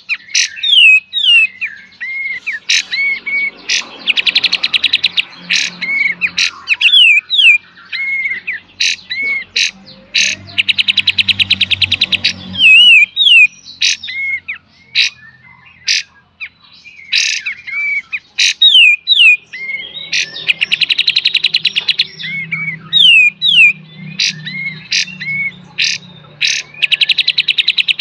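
Kapas tembak bulbul singing nonstop in full 'beset' and 'tembak' style. Sharp slurred whistles and clipped shooting notes alternate with rapid rattling trills, about four of them, each lasting a second or two.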